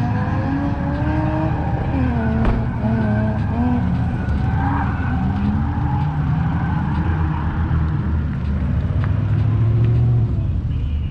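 Drift car engines revving up and down repeatedly over tire screech.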